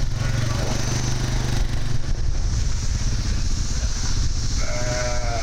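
An engine running steadily, with a brief high pitched sound over it near the end.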